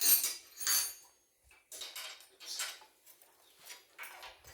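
A series of short metallic clinks and clatters of tools and engine parts being handled while a motorcycle engine is taken apart, the loudest two within the first second.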